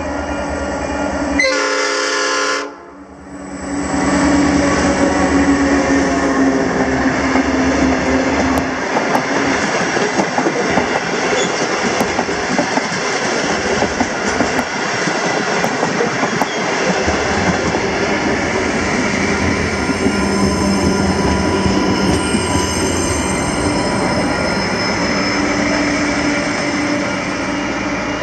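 Diesel locomotive sounding one short horn blast about two seconds in as it approaches, followed by a passenger train running through with a steady rumble and wheels clattering on the rails.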